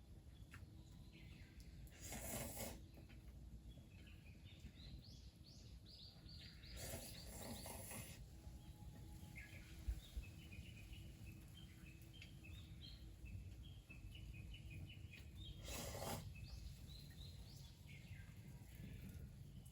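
Faint outdoor ambience of small birds chirping in short repeated calls, with three brief bursts of noise, the second lasting about a second, over a low steady rumble.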